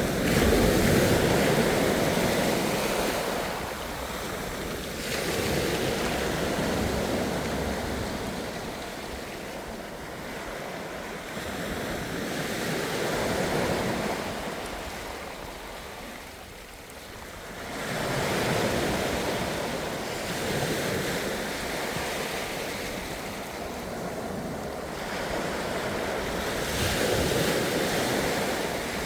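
Ocean waves breaking and washing on the shore, rising and falling in surges every few seconds, with a lull about halfway through, and some wind on the microphone.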